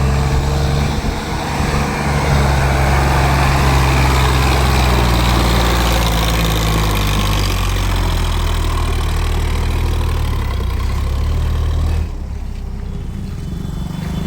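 Diesel tractor engine running steadily. Its sound drops suddenly about twelve seconds in.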